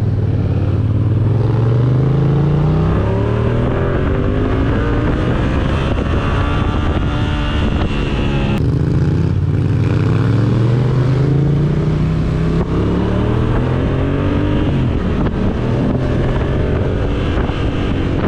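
Yamaha MT motorcycle engine accelerating through the gears: the revs climb, drop at each upshift and climb again several times, with a sharp shift about halfway through.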